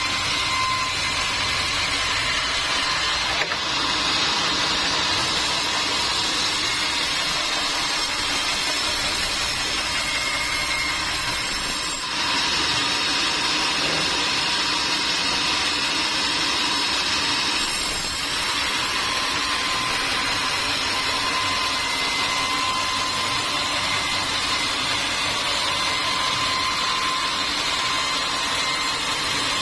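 Sawmill machinery running steadily: a continuous mechanical noise with a thin high whine, changing abruptly a few times.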